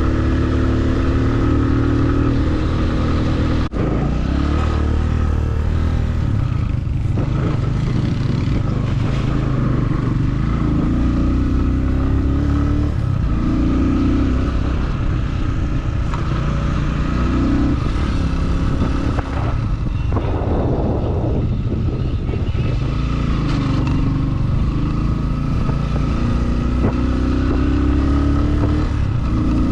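Motorcycle engine running under way, with strong low rumble. The engine note rises and drops several times as the throttle and gears change.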